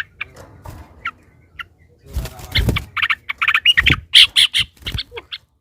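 Yellow-vented bulbul (trucukan) calling: a few short sharp notes, then a fast run of harsh chattering notes from about three to five seconds in. A few dull thumps are mixed in.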